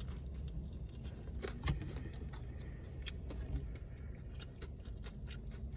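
Close-up chewing of fried chicken, with scattered small crunches and mouth clicks, over a low steady hum.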